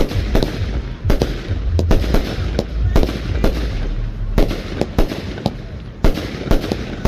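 Fireworks going off in a display: a rapid, irregular run of sharp bangs, roughly two a second, over a continuous rumble.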